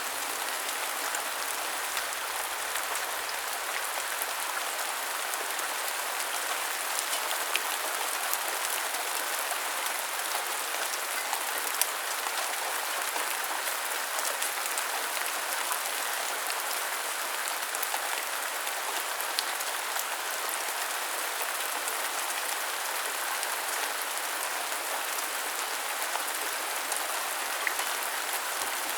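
Steady rain falling and pattering on hard surfaces, with scattered sharper drop ticks.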